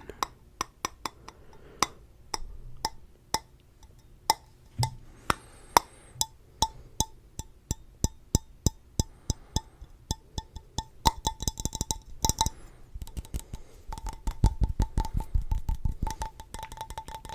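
Fingers tapping on a hard object close to the microphone. The taps are separate, a couple a second at first, then grow faster into dense rapid drumming over the last few seconds, with a light ringing tone under them.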